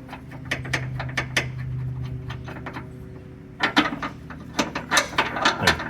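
Metal clinking and rattling of tow chain and rigging hardware being handled and fastened onto a car's tow hook: a run of short sharp clicks and knocks, busiest in the second half.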